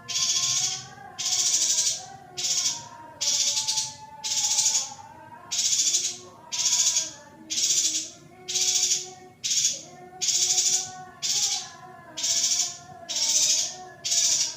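Female yuhina calling over and over: short, buzzy, high calls about one a second, in an even rhythm, with softer wavering tones underneath.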